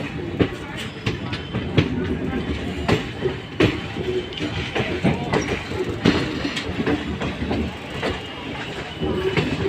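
Train running on the track: a steady rumble with irregular sharp clacks and knocks of the wheels and cars.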